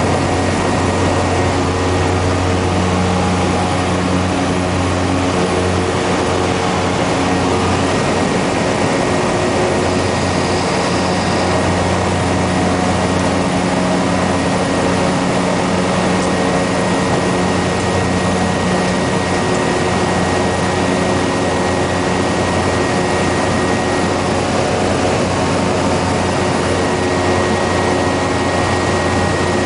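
Cessna Grand Caravan's single PT6A turboprop engine and propeller running steadily at high power: a constant low drone with a thin high whine above it.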